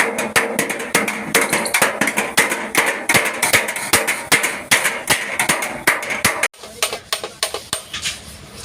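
Rapid hammering on truck-cab sheet metal, several blows a second, as the dented panel is beaten out. It cuts off suddenly about six and a half seconds in, and quieter, scattered knocks follow.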